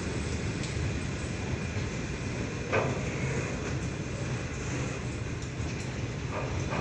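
Loaded steel freight wagons rolling past on the rails with a steady rumble of wheels and bogies. There is a single clank a little under three seconds in.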